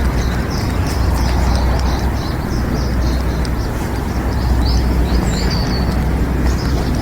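Small birds chirping and twittering in many short calls over a steady low rumble.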